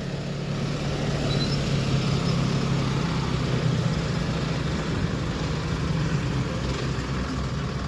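Heavy diesel engine running steadily, a low even hum with no change in pitch.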